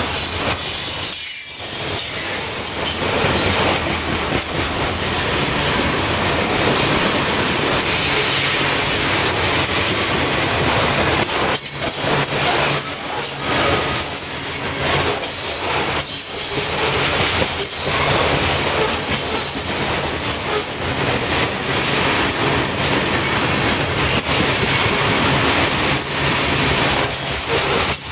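Covered hopper cars of a freight train rolling past: a loud, steady rumble and rattle of steel wheels on the rails.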